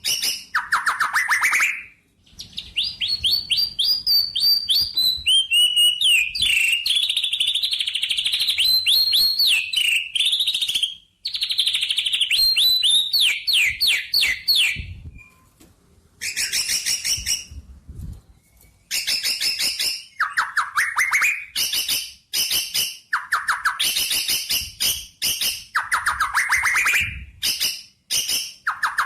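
Small birds chirping and trilling: fast runs of repeated high notes and quick rising sweeps, in several bursts with short pauses between them.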